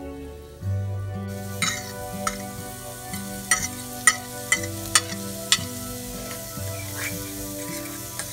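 Sliced sausage and chopped vegetables sizzling in bacon fat in a cast-iron skillet, starting about a second in. Through the middle comes a string of sharp clinks and scrapes as the meat is pushed off the plate into the pan.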